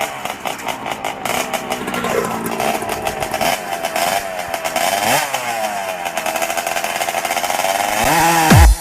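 Motorcycle engine revving, its pitch rising and falling several times. Just before the end, a deep falling bass swoop leads back into electronic music.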